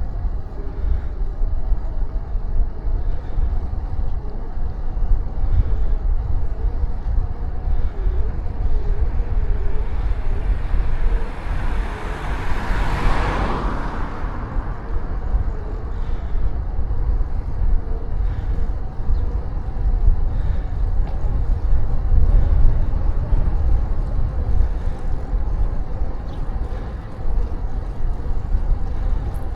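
Steady low wind rumble on the microphone of a moving bicycle. About halfway through, a car passes, swelling up and fading away over a few seconds.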